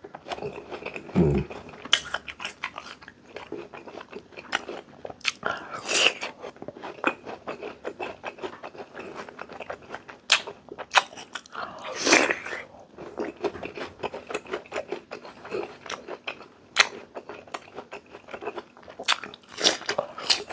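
Close-up crunching and chewing of raw jicama slices coated in shrimp-paste sauce, with wet mouth clicks between bites and a few louder bites about six and twelve seconds in.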